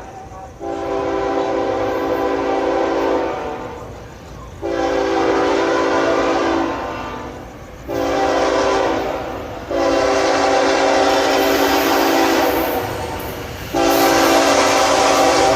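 Diesel locomotive's five-chime Nathan K5HL air horn blowing a chord in a series of blasts: two long, a shorter one, a long one, and another long blast starting near the end. This is the long-long-short-long grade-crossing warning. The train's rumble runs underneath.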